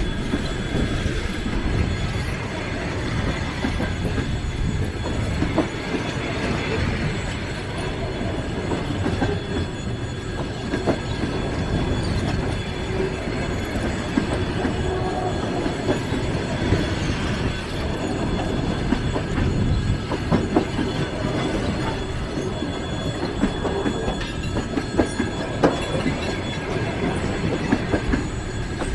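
Passenger coaches of a departing train rolling past, a steady rumble of wheels on rail with irregular sharp clicks as the wheels cross rail joints, and thin steady high tones above.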